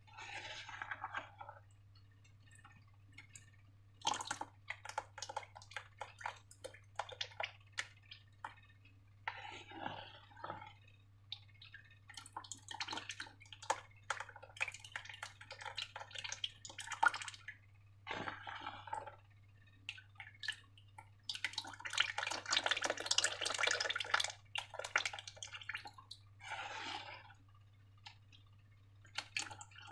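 Wet, sticky sounds of slime being poured, dripped and squished: short runs of drips and squelching clicks broken by quiet pauses, with a longer, denser stretch of wet pouring and mixing about three quarters of the way through.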